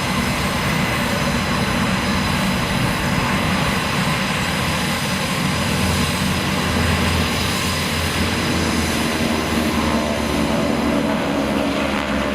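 Aircraft engines running continuously as display planes fly an air show routine, steady and loud throughout.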